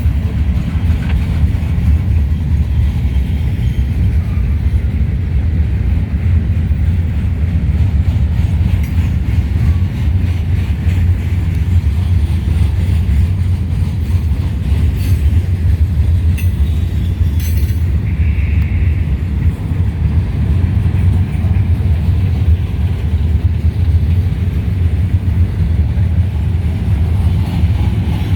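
A heavy, fully loaded freight train of gondola cars rolling past at close range: a loud, steady low rumble, with a few faint clicks around the middle.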